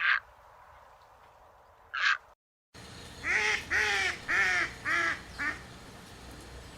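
A run of five quick quacking calls, each shorter and fainter than the one before, typical of a duck. Before them come two short high-pitched calls.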